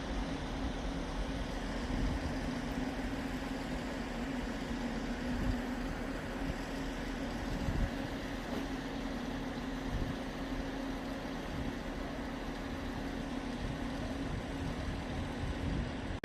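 A train standing at the platform, its engine or equipment running with a steady low hum.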